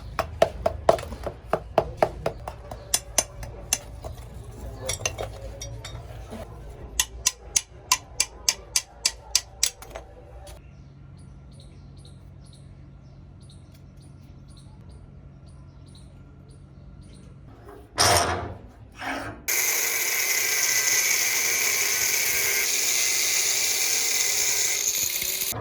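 Workshop tool work: a run of rapid sharp taps for about ten seconds, then a quieter stretch, then a steady loud hiss through the last six seconds.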